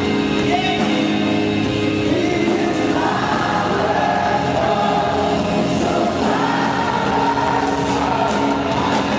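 Live contemporary Christian worship music: a band playing, with many voices singing held notes together.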